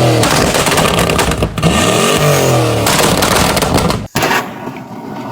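A car engine revving, its pitch rising and falling several times, breaking off sharply about four seconds in, then a quieter rough noise.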